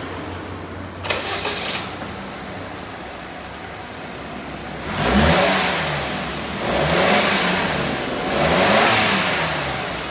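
Suzuki Spacia's 660 cc three-cylinder engine running after the engine swap: it idles, then is revved three times, each rev rising and falling in pitch. The sound cuts off suddenly at the end.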